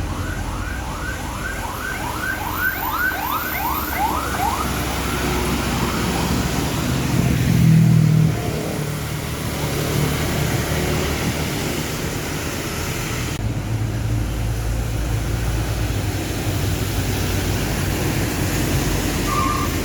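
Heavy trucks running on a road. For the first four seconds a fast, repeated rising siren-like whoop sounds over the traffic and fades out. A louder low engine rumble swells briefly around eight seconds in.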